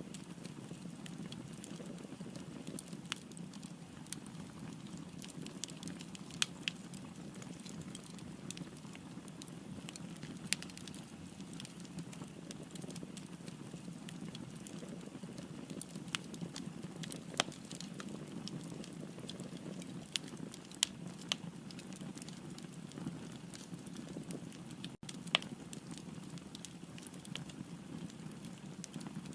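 Wood fire burning: a steady low rush of flames with sharp crackles and pops scattered irregularly through it.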